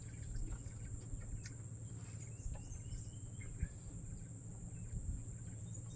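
Steady high-pitched drone of insects in forest, with a few faint clicks and rustles over it.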